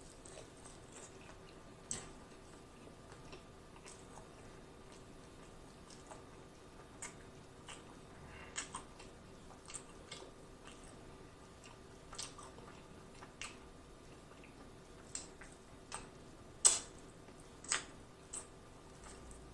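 Close-miked eating of chicken wings: scattered wet mouth clicks and smacks as the meat is chewed and pulled off the bone, with one louder smack near the end. A faint steady hum lies underneath.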